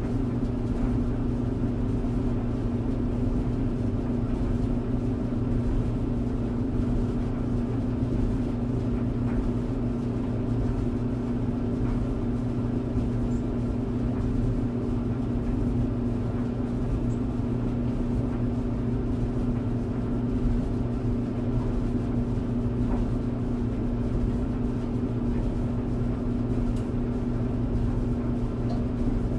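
Clothes tumble dryer running steadily: an even motor hum with a low rumble from the turning drum.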